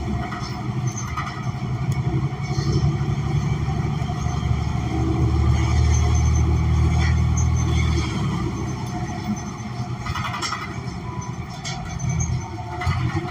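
New Flyer XN40 transit bus's Cummins Westport ISL G natural-gas engine running under way, heard from inside the bus as a steady low drone. It grows louder about four seconds in and eases off about eight seconds in, with a few short rattles near the end.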